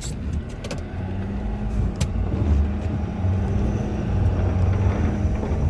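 Ford F-250's 6.7 L Powerstroke V8 turbo-diesel running steadily while plowing snow, with a few sharp clicks near the start and about two seconds in.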